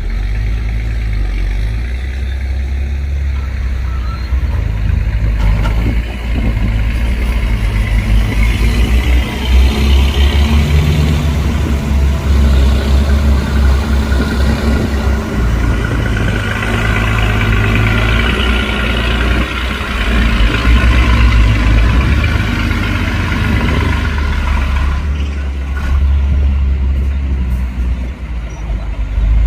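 Heavy diesel earthmoving machinery at work: deep engines running steadily, working harder and louder through the middle stretch, from about 8 to 24 seconds in.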